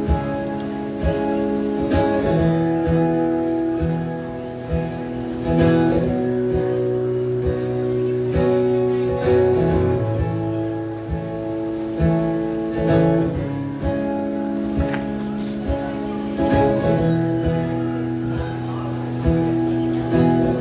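Live band playing an instrumental passage: strummed acoustic guitar chords over a steady drum beat.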